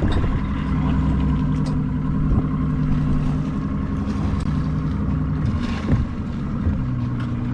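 Boat motor running steadily at low speed, its tone shifting about two-thirds of the way through, with a few light knocks on the hull and deck.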